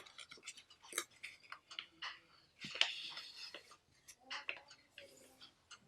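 Origami paper being folded and creased by hand: a string of crisp crackles and clicks, with a longer rustle about three seconds in.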